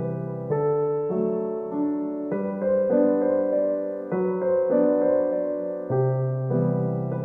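Background music: a gentle solo piano piece, with notes and chords struck about every half second to second and left to ring.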